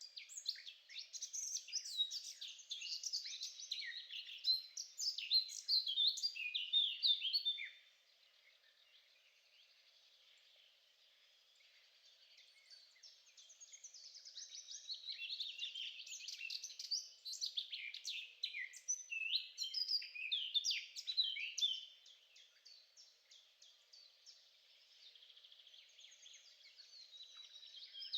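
Songbird singing: long bouts of fast, high chirps and trills, one for about the first eight seconds and another from about thirteen to twenty-two seconds, with fainter song near the end.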